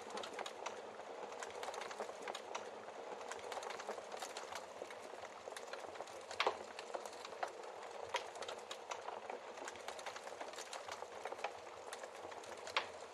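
Wood fire crackling steadily in a fireplace, with scattered sharp pops from the burning logs. The two loudest pops come about six and a half seconds in and near the end.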